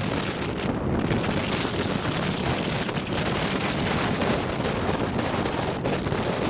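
Rain shower falling steadily, with wind buffeting the microphone.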